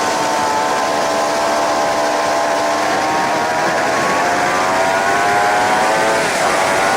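Suzuki GSX-R750 K7's inline-four engine heard from on the bike over heavy wind rush. The revs ease off during the first second, climb steadily from about three seconds in, and dip briefly near the end before rising again.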